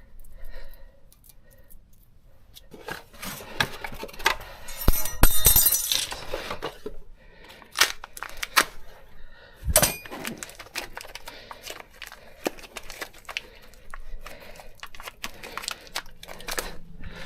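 Metal parts and hand tools being handled: a run of sharp clinks, clanks and light scrapes, with a louder rasping scrape about five seconds in and a hard knock near the middle.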